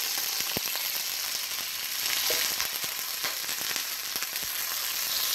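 Diced tilapia, chicken and skirt steak frying in smoking-hot oil in a wok: a steady sizzling hiss with a few short ticks and pops.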